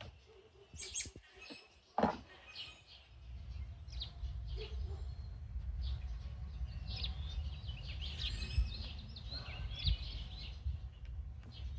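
Small birds chirping in the background, with a sharp click about two seconds in and a low rumble from about three seconds on.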